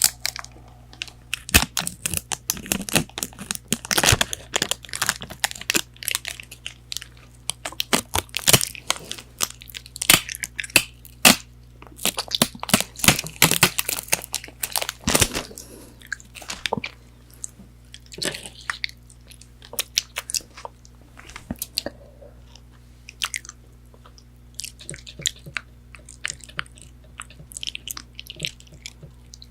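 Close-miked crunching and chewing of McDonald's chicken nuggets, with crisp breaded coating cracking in many sharp crunches. The crunches come thick and loud through the first half and thin out to sparser, softer chewing in the second half.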